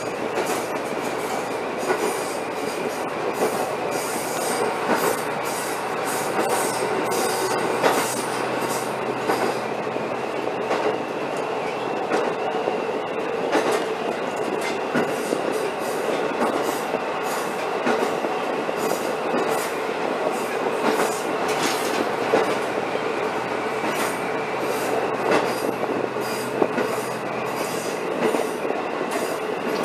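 Diesel railcar running along the track, heard from inside the car: a steady rumble with a constant whine and irregular clicking of the wheels over rail joints.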